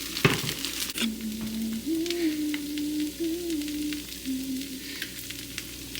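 Food sizzling and crackling as it fries in a pan, with one sharp clack of a utensil against the pan just after the start.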